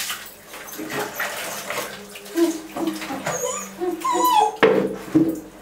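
Puppies whining and squeaking in short, bending high cries, over water splashing, with two sharp knocks near the end.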